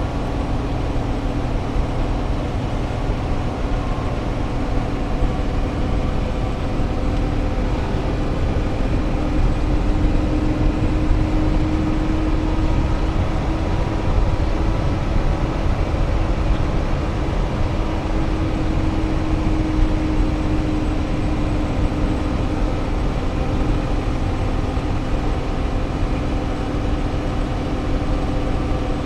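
Vehicle cruising on a highway, heard from inside the cab: a steady engine hum with road and wind noise, its pitch drifting slightly as speed changes.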